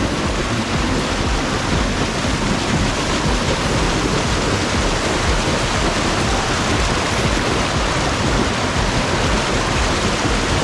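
Small waterfall's rushing water, a loud, steady, even roar.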